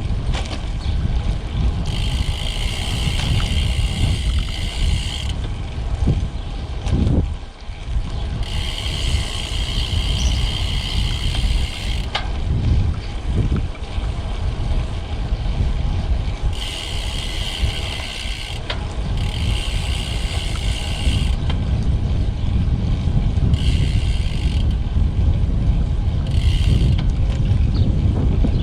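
Wind rushing over the microphone of a road bike in motion, a steady low rumble. A brighter buzz cuts in and out several times, each stretch lasting from about half a second to three seconds.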